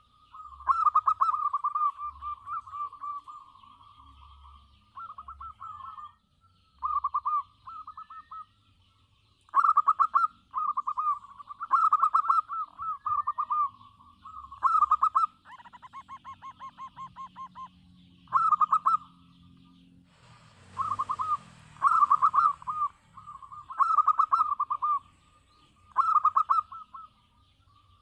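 Zebra dove cooing: repeated phrases of rapid, rolling coos, a new phrase every second or two. A short rush of noise breaks in about 21 seconds in.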